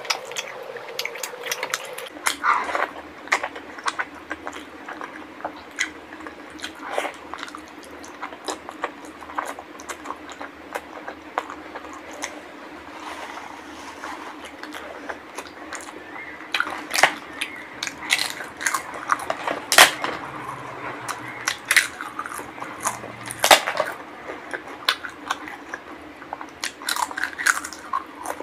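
Close-up chewing and wet mouth sounds of someone eating rice and curry by hand, with many sharp smacks and clicks scattered throughout, the loudest a little past the middle.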